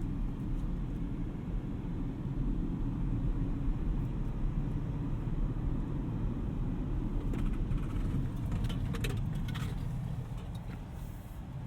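Steady low rumble inside the cabin of an Audi RS6 Avant on the move: its twin-turbo V8 running along with road noise, and a few faint clicks in the second half.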